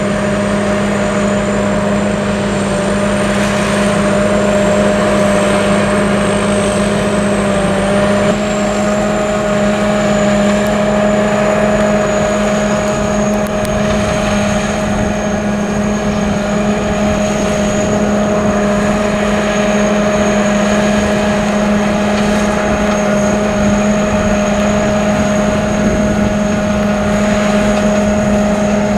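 Sakpattana SS-200 mini combine harvester running steadily: a constant engine drone with a thin high whine above it. The pitch shifts slightly about eight seconds in.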